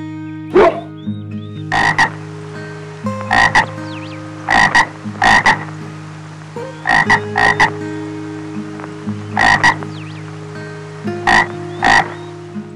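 Frog croaking: short croaks, singly and in quick pairs, repeated every second or so.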